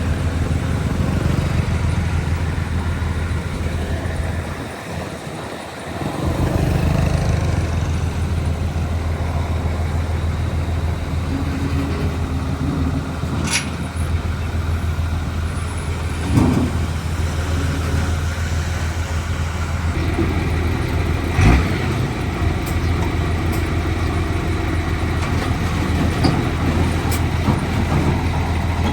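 Diesel engines of heavy earthmoving machinery running steadily, with a brief drop about five seconds in. A few knocks and clanks come through, the loudest a thump a little past twenty seconds in.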